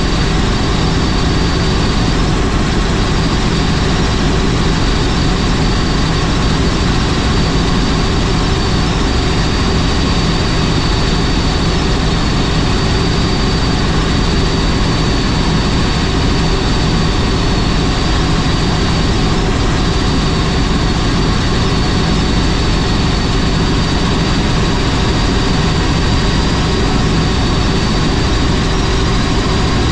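Helicopter running steadily, its engine and rotor making a constant loud drone with a thin high whine over it.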